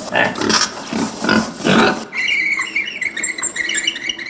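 Recorded domestic pig grunting, a series of short grunts over the first two seconds, then a different, hissy sound with a thin high tone that runs to the end.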